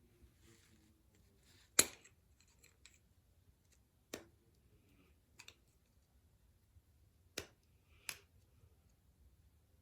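About five sharp, separate clicks from hands working on a toy's mechanism, the loudest about two seconds in.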